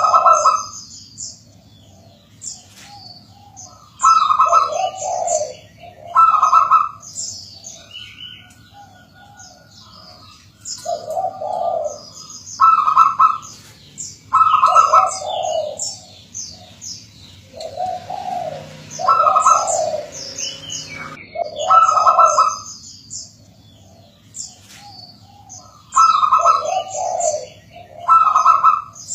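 Zebra dove (perkutut) singing its cooing song, phrase after phrase every two to three seconds, with quieter higher chirps between and over the phrases.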